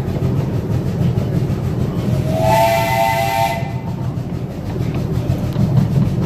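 Live steam locomotive's whistle blown once, about two seconds in, for about a second and a half: several tones sounding together that slide up slightly as it opens, with a hiss of steam. Beneath it the train rumbles steadily along the track.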